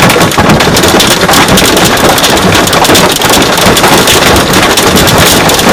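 Hail and heavy rain pelting a truck's roof and windshield: a loud, dense, continuous clatter of impacts.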